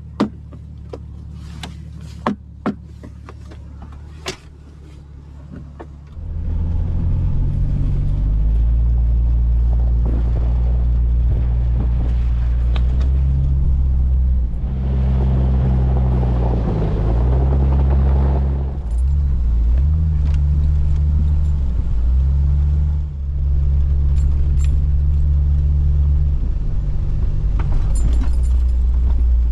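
Vehicle engine idling, with a few sharp clicks and knocks. About six seconds in it gets much louder as the vehicle drives off, the engine drone rising and falling in pitch as it runs on down the road.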